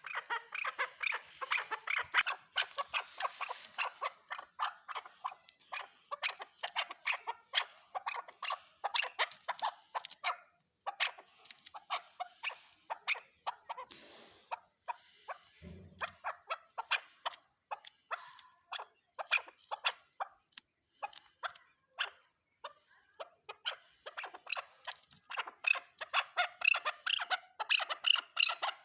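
Chukar partridge calling: a long, rapid run of short, sharp chuck notes, several a second, thinning briefly about halfway through before picking up again.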